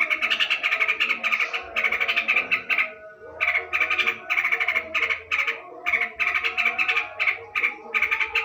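Yellow-vented bulbul (trucukan) chattering, with rapid runs of bubbly notes broken by short pauses.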